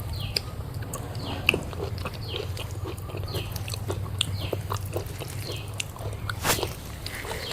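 Close-miked chewing with wet mouth smacks and small clicks, a soft smack about every second, and one sharper click near the end.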